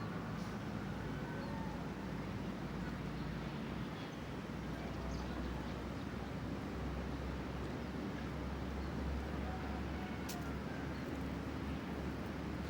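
Steady outdoor background with a low rumble, faint short calls rising and falling in pitch, and a single sharp click about ten seconds in.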